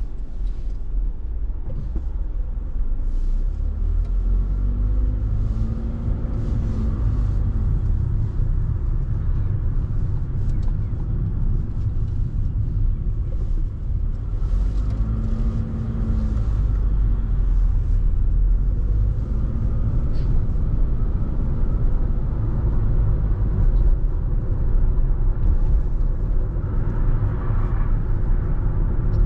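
Car on the move: a steady low rumble of engine and road noise, with the engine note briefly rising and falling a few times.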